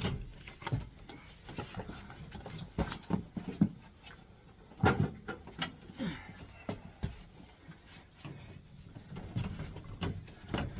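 Heavy HVAC unit being manhandled into place: scattered knocks, bumps and scrapes as it is shifted and set down.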